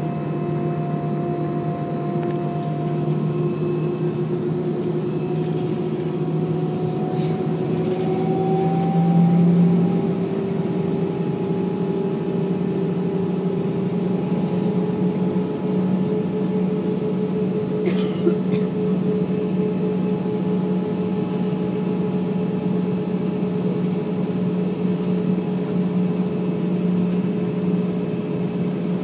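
Airbus A320 jet engines droning in the passenger cabin, their tones gliding up in pitch about seven to ten seconds in as engine power rises, then holding steady. A short clatter comes about seven seconds in and a sharp click near eighteen seconds.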